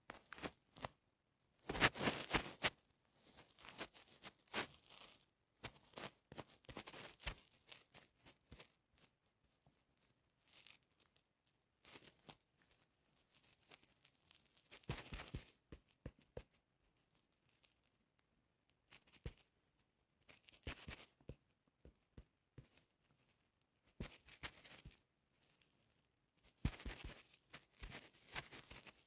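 Irregular rustling and crinkling with sharp clicks, coming in short bursts separated by quiet gaps, the loudest about two seconds in.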